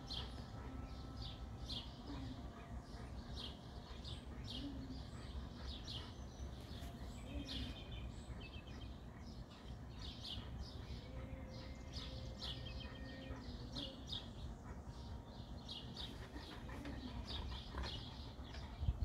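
Small birds chirping repeatedly, short high chirps about one or two a second, over a faint steady low rumble.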